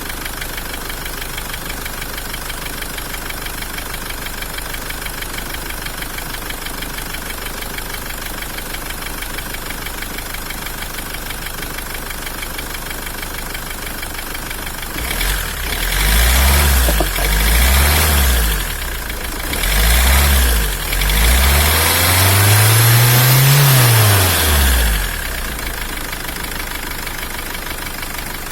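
Common-rail diesel engine idling with a steady knock, running on a freshly rebuilt Bosch injector. About fifteen seconds in it is revved in three short blips and then one longer rev that rises and falls, then drops back to idle.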